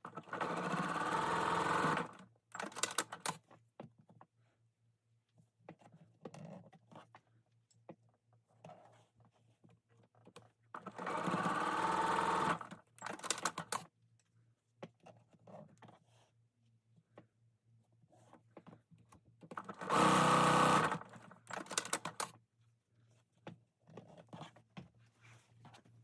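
Sewing machine stitching quilt-patch seams in three short runs of one to two seconds each, sped up, with small clicks and handling noises between the runs.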